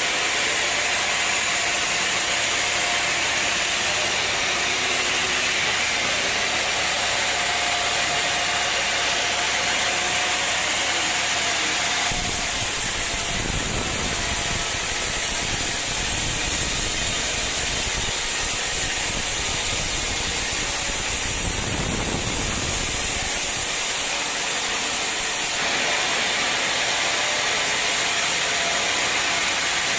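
Sawmill machinery running with a steady, loud hissing noise and no pauses. The sound changes abruptly about twelve seconds in, adding a deeper rumble, and changes back near the end.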